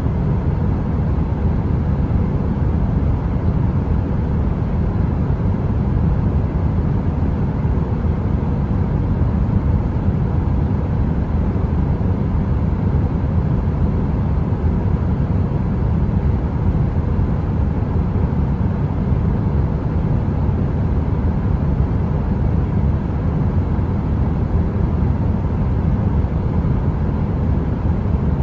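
Heater's steady low-pitched rushing noise, with a faint hum and no crackle or change.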